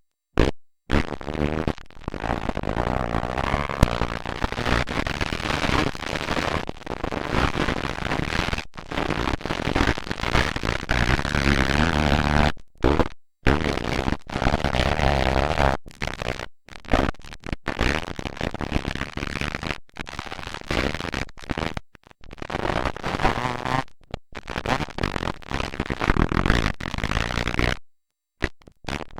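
Motocross dirt bike engines running and revving hard at race pace, loud and harsh on a camcorder microphone. The sound cuts out abruptly for a moment again and again.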